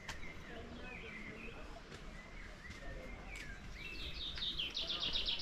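Small songbirds chirping and twittering, with a fast, loud trill of quick repeated notes near the end.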